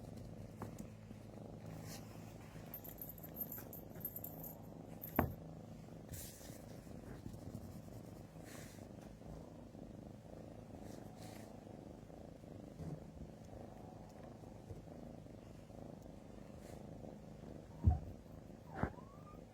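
Domestic cat purring steadily, a low pulsing rumble close to the microphone, with a couple of sharp taps about five seconds in and near the end.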